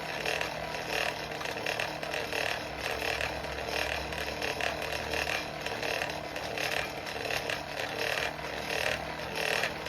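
Forge blower running steadily with air rushing through the fire pot, under a faint low motor hum. A higher hiss swells and fades repeatedly throughout.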